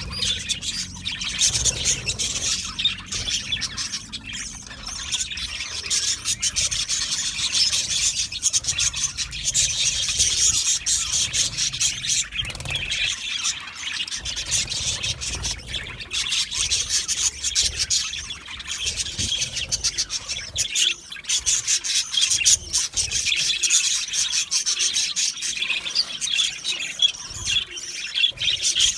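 A flock of budgerigars chattering and warbling without pause, with many overlapping high chirps, squawks and short clicks.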